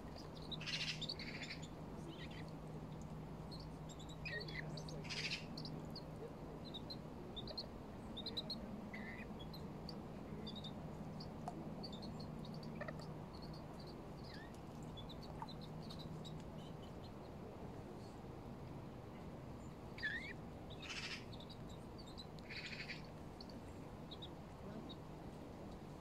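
Birds calling: many short, high chirps scattered throughout, with a few louder, harsher calls about a second in, around five seconds in and twice near the end.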